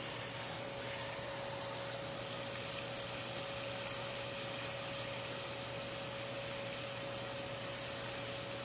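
Chicken frying in hot oil in a pan, a steady sizzle, over a steady hum.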